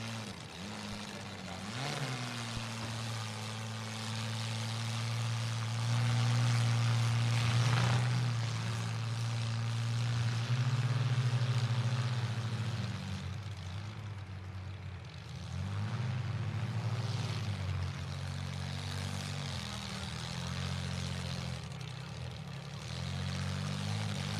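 Demolition derby compact cars' engines running and revving, the pitch rising and easing off again and again. The engines are loudest in the middle stretch.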